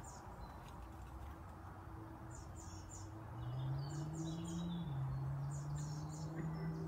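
Faint bird chirps in short quick runs of three or four notes, over a low steady hum that shifts up in pitch a little past the middle.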